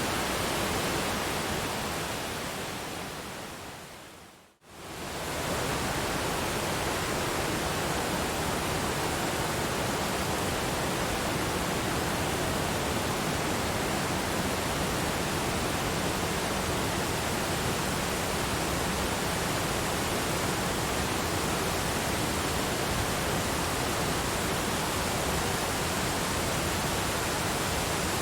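Waterfall's falling water as a steady, even noise. A few seconds in it fades out to silence, then comes straight back up to full level.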